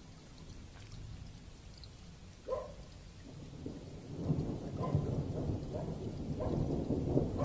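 Thunder rumbling low over steady rain, swelling louder about four seconds in. A short higher-pitched tone sounds about two and a half seconds in.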